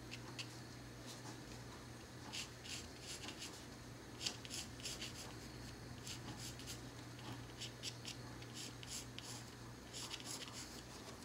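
Colored pencil scratching lightly on paper in short, irregular strokes, drawing feathers. A faint steady hum runs underneath.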